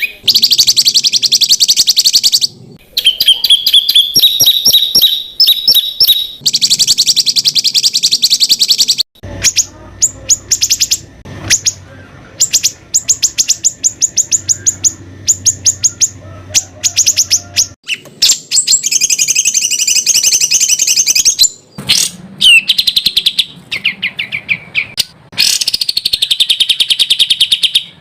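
Songbird masteran song: loud, rapid-fire trills and fast runs of sharp repeated notes (the 'tembakan' shots prized in contest birds), in bursts of a few seconds broken by short pauses.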